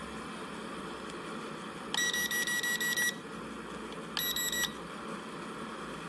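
Electronic warning beeps from a drone's remote controller: a rapid run of high beeps lasting about a second, then a shorter run about two seconds later, over a steady wind-like hiss.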